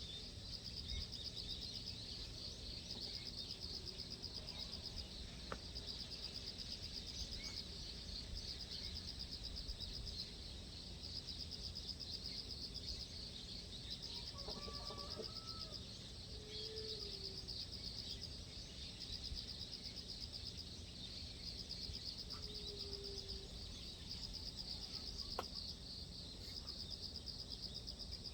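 Outdoor ambience: a steady, fast-pulsing high chirring of insects over a low rumble. A few short bird calls come about halfway through and once more later.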